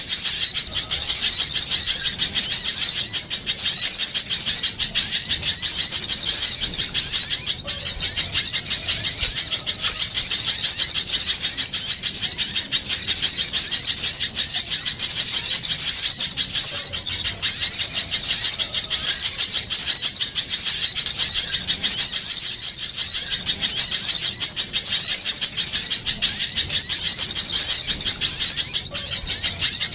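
A dense, continuous chorus of many small songbirds chirping and twittering rapidly at a high pitch without a break: a noisy small-bird lure call of the kind played to draw small birds in for trapping.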